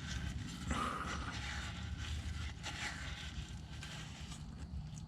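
Faint wiping and scraping as oil and metal shavings are cleaned out of a Ford 8.8 differential housing, with scattered light ticks of handling.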